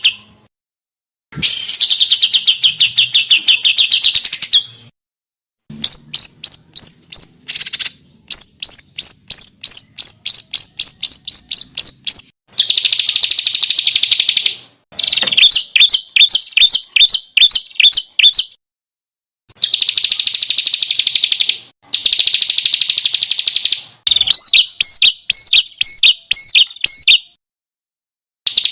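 Songbird song from a masteran training mix: loud, rapid trills and runs of sharp chirping notes, each phrase lasting a second or two with short gaps between. Dense buzzy trills alternate with phrases of separate staccato notes.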